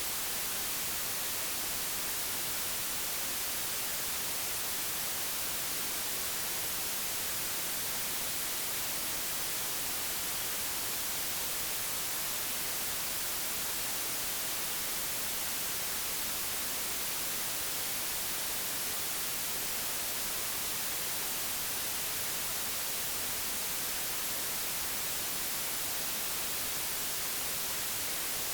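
Digitally generated white noise: a steady, unchanging hiss spread evenly across the whole frequency range.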